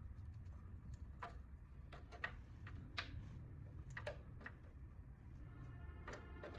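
Irregular light clicks and taps, hand work on metal parts, over a steady low hum. Near the end there is a brief ringing scrape.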